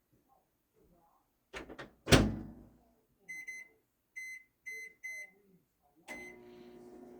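Microwave oven being started: a couple of clicks and a loud thud as the door is shut, four short keypad beeps, then a start beep, after which the oven runs with a steady hum.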